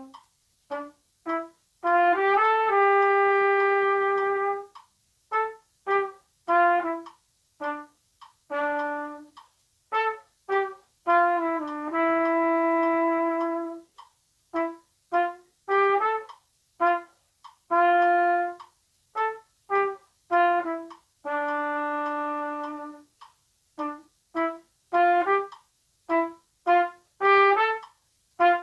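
Plastic trumpet (pTrumpet) playing a jazzy study unaccompanied: mostly short, detached notes in a swung line, with three long held notes, one at the end of each phrase.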